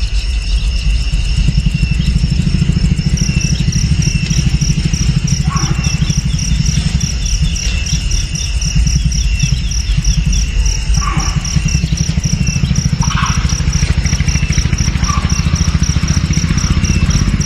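An insect trilling in a fast, even pulse alongside a repeating high chirp, over a steady low rumble, with a few short calls here and there.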